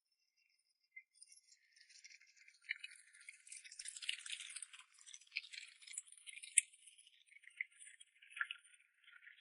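Dog eating: a faint, crisp run of crunching and clicking with a few sharper clicks, starting after about a second and a half of near silence.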